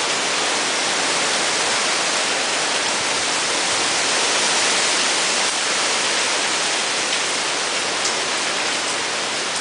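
Steady hiss of a hurricane's heavy rain and wind, with winds of 50 to 60 miles an hour and no let-up.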